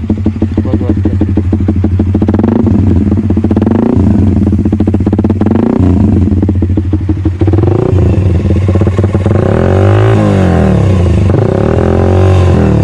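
Suzuki GSX-R150's single-cylinder four-stroke engine running through an aftermarket exhaust: idling with a steady pulse, then revved several times in quick blips in the second half, the pitch rising and falling with each.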